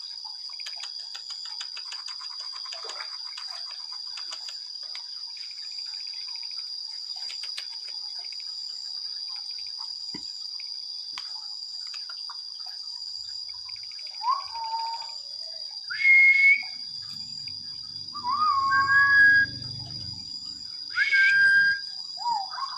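Black-capped lory giving about five loud whistled calls in the second half, each a sharp upward-sliding note that levels off into a held tone. Before the calls there is only a steady high-pitched tone and faint scratching.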